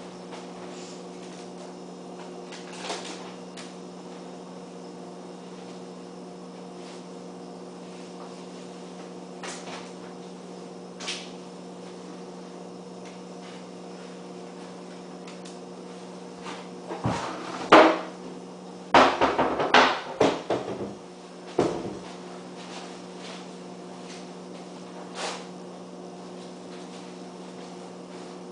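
A steady low hum, with scattered clicks and knocks, and a cluster of louder knocks and clatter a little past the middle.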